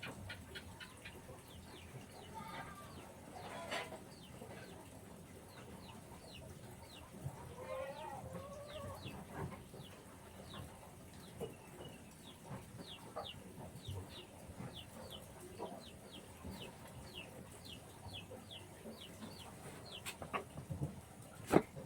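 Chickens clucking, with a string of short high chirps that fall in pitch, repeating every fraction of a second, and a longer wavering call about eight seconds in. A single sharp knock comes near the end.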